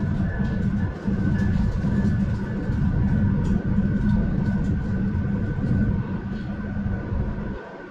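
RTD A Line electric commuter train running: a steady low rumble with steady high whining tones above it. The sound drops briefly near the end.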